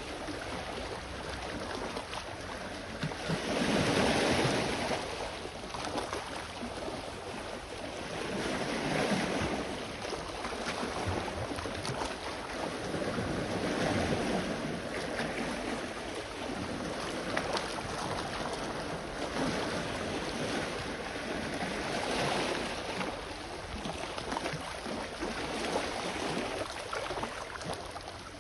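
Sea waves washing onto the shore, a steady wash that swells and fades every few seconds.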